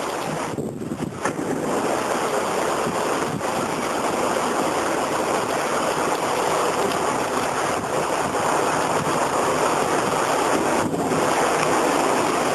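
Squall-line windstorm: a steady rush of strong wind and rain, with wind buffeting the microphone. It picks up slightly about two seconds in.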